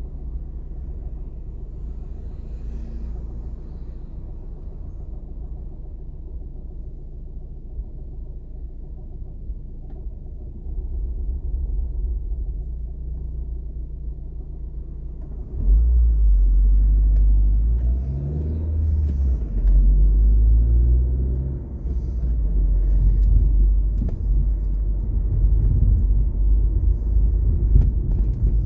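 Car engine and road rumble heard from inside the cabin: a low, steady idle while stopped in traffic, then about halfway through the car pulls away and the engine note climbs and drops back in steps as it accelerates through the gears, with the rumble much louder from then on.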